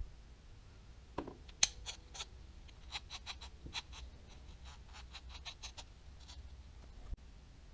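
Light clicks and taps from handling the small parts of a Daiwa Tatula 100 baitcasting reel: a couple about a second in, then a quicker run of them, a few a second, in the middle.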